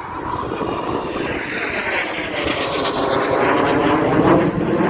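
Jet engines of BAE Hawk T1 display aircraft passing overhead: a rushing jet roar that grows louder, peaking about four seconds in, with a sweeping shift in pitch as the aircraft go by.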